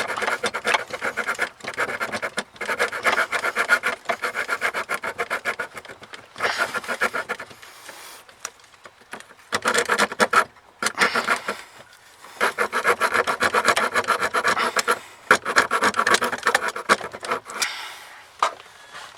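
Hand saw cutting by hand in runs of fast rasping strokes, each run lasting one to two seconds, with short breaks between runs and a longer lull about eight seconds in.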